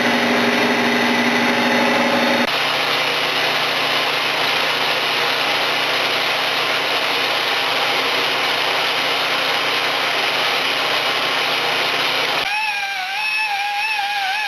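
Machine-shop machinery running with a steady whir and a few held tones, its sound changing about two and a half seconds in. Near the end it gives way to music with a wavering, vibrato-like melody.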